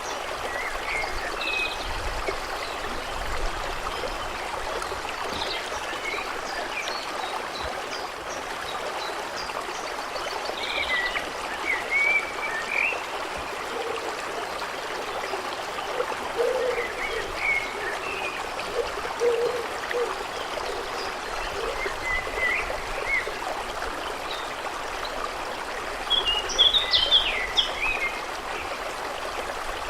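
A stream running steadily, with birds chirping over it in short scattered calls, busiest near the end.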